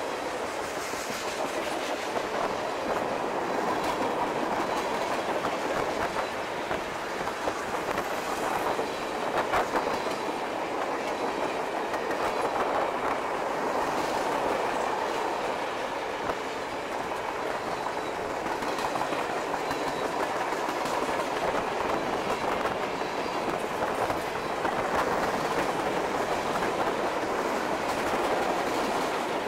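Mixed freight train of boxcars, tank cars, flatcars and covered hoppers rolling steadily past, with scattered clicks of steel wheels over the rail joints.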